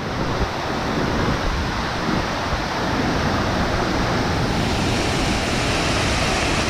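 Steady rush of Minnehaha Falls, a waterfall's falling water.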